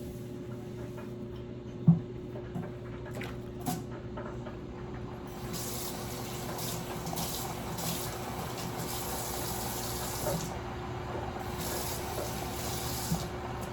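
Kitchen faucet running into a sink, on for about five seconds, off briefly, then on again near the end, after a few sharp knocks from handling things at the counter about two and four seconds in.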